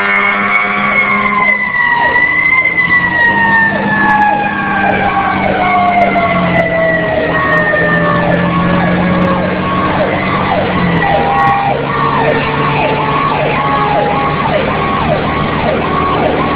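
Fire engine responding with sirens. One siren winds down in a long, slow falling wail while a second yelps rapidly, about twice a second, and the truck's engine runs underneath.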